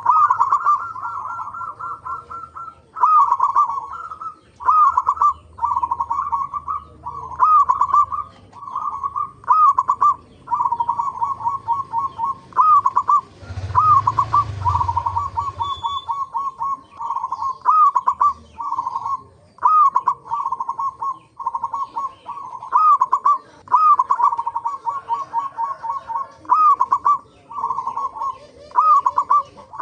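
Zebra doves (perkutut) cooing: repeated phrases, each a loud curved opening note followed by a quick run of short coos, about one phrase every second or two. A brief rumble of noise comes about halfway through.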